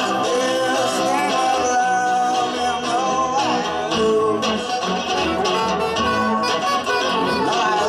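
Live band playing an instrumental passage: guitar with a sustained lead melody over it that slides and bends in pitch.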